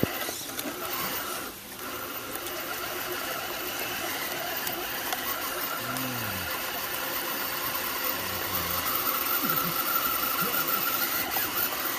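Small electric motor and gearbox of a radio-controlled scale crawler truck whining steadily as it drives, a little louder in the second half.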